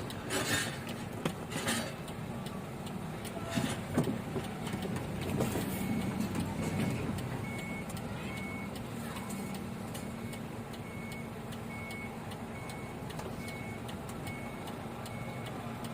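Truck's diesel engine running on used-cooking-oil biodiesel, with a few knocks early on. From about six seconds in, a warning beeper sounds in short, evenly spaced high beeps, about three every two seconds.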